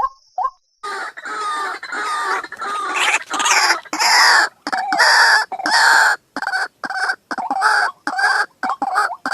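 White-breasted waterhen calling: two short notes, then from about a second in a long run of loud, rough, rapidly repeated calls that turn into quicker short notes near the end.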